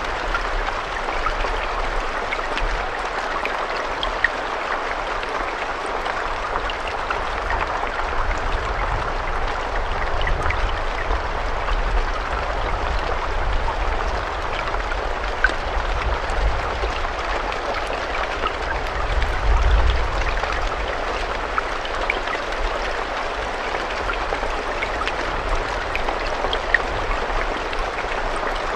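Steady rain falling, a constant hiss scattered with the sharp taps of individual drops. A low rumble swells briefly about two-thirds of the way through.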